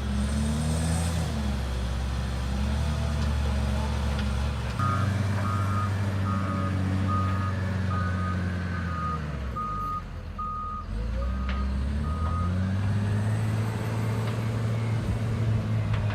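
Heavy diesel machine running with a low, steady drone. About five seconds in, its reversing alarm starts: a row of evenly spaced beeps, between one and two a second, for about eight seconds.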